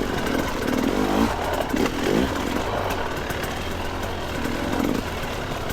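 Two-stroke dirt bike engine running at low revs in first gear, with a short rising rev about two seconds in.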